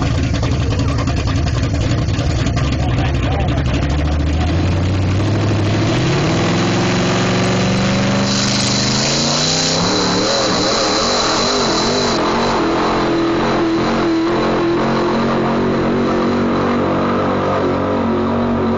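Pulling truck's engine at full throttle during a pull. Its pitch climbs from about four to seven seconds in, then holds high and steady. A bright hiss sounds over it for a few seconds in the middle.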